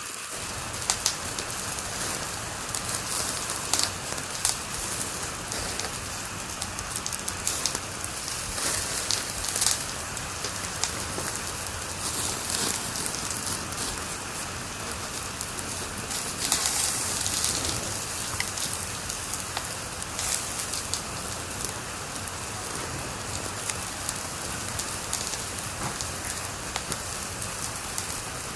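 Fire crackling in a fireplace: a steady hiss with frequent, irregular sharp pops and snaps.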